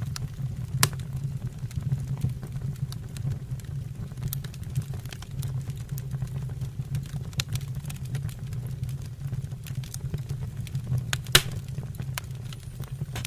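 Wood fire burning in a stove or fireplace: a steady low rumble of flames with scattered crackles and pops, two sharper pops about a second in and near the end.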